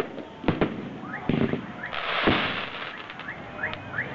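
Aerial fireworks going off: several sharp bangs of bursting shells, a stretch of crackling hiss about two seconds in, and a run of short rising whistles.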